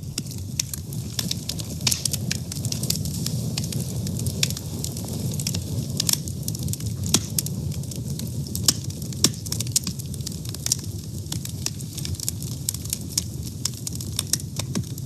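A fire burning, with frequent irregular sharp crackles and pops over a low, steady rush of flame.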